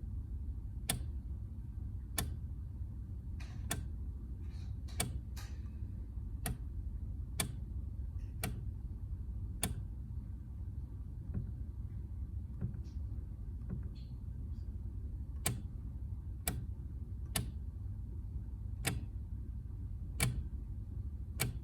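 Sharp clicks from the key action of a Kawai NV10 hybrid digital piano as keys in the seventh octave are played one at a time, about one click a second, with no piano tone heard. The owner calls it a weird action sound and takes it for a fault in the action.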